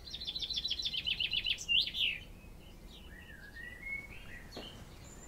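Wild birdsong: a fast, high trill of repeated notes for about a second and a half, then a couple of sweeping calls and fainter scattered chirps.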